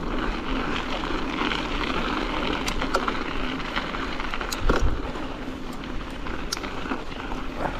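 Strong wind buffeting the microphone during a mountain bike ride in high winds, a steady rushing rumble with scattered small clicks and one louder knock a little past halfway.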